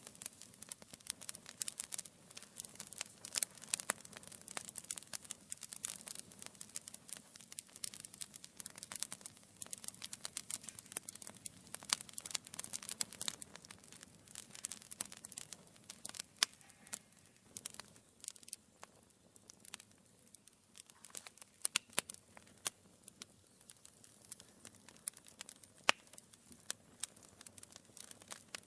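Wood fire burning in a fireplace, crackling steadily with many small irregular snaps and occasional louder pops.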